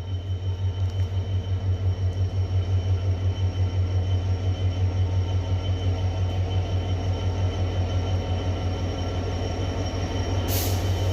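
Class 66 diesel-electric locomotive's two-stroke V12 engine running with a steady, deep, pulsing throb, about five beats a second. A short hiss comes near the end.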